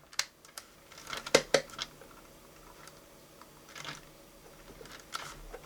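Scattered light clicks and taps of hard objects being handled on a workbench, a few at a time, with quiet between.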